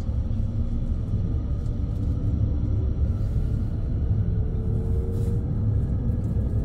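Low, steady rumble of a JR West Thunderbird limited express electric train, heard from inside the passenger cabin as it pulls out of the station. Faint motor whines rise slowly in pitch as the train gathers speed.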